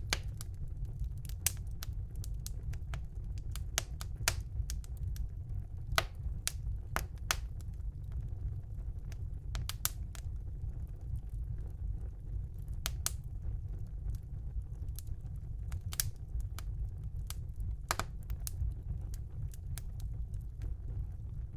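Wood fire burning in a fireplace, crackling with sharp, irregular pops over a steady low rumble of the flames.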